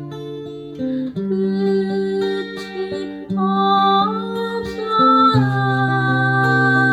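Acoustic guitar playing a slow song, with a voice singing held notes that comes in about halfway through.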